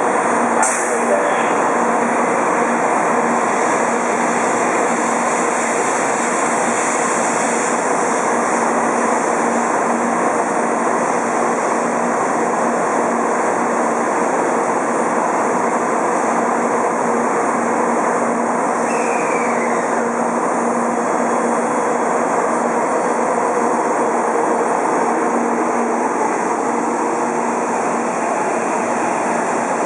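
N700 series Shinkansen train pulling slowly out of the platform: steady running noise of the moving train with a low hum, and a short falling squeal a little past halfway.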